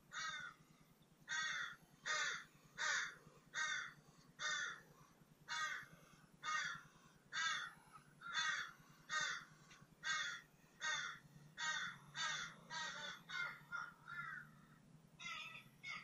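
A bird calling over and over in a steady series, about twenty calls, roughly one every three-quarters of a second, with a faint low hum beneath.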